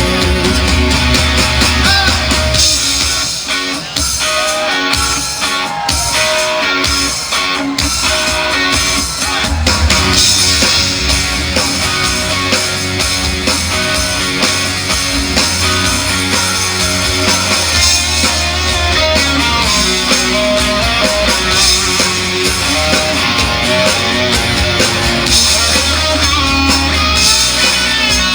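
Instrumental break of a rock song: guitar leads over bass and drums, with no singing after the last word of the line at the very start.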